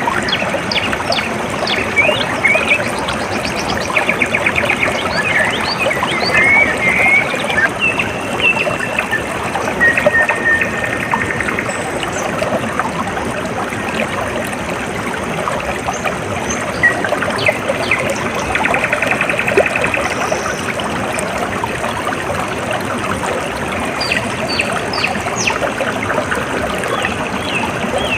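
Water trickling and flowing steadily, with many small birds chirping over it and trilling now and then.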